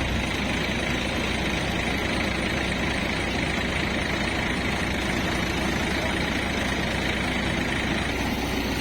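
Heavy diesel engine running steadily with a fast, even low rumble.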